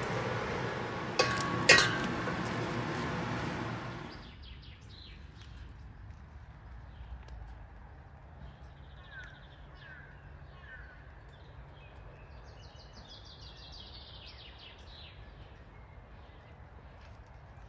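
A steady noise with two sharp knocks a little over a second in cuts off after about four seconds. After it comes a quiet outdoor background with faint bird chirps and a short trilled birdsong.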